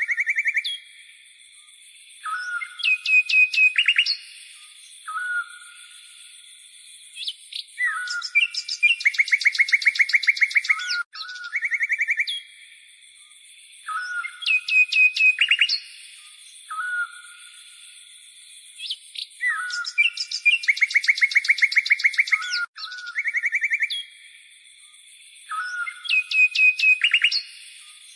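Songbird singing in repeated phrases of short whistles and fast trills, over a steady high buzz. The same stretch of song recurs about every 11 seconds, with abrupt breaks near 11 and 23 seconds: a looped recording.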